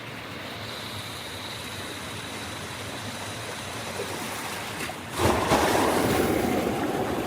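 Steady rush of floodwater flowing through a river barrage, jumping suddenly louder about five seconds in.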